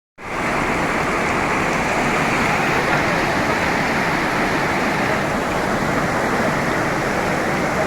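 Heavy tropical rain falling in a steady, dense hiss.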